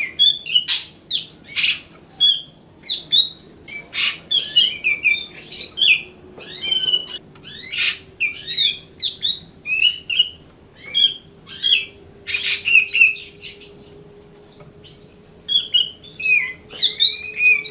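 Grey-cheeked bulbul (cucak jenggot) singing its riwikan song: a rapid, chattering run of short, varied chirps and whistled notes.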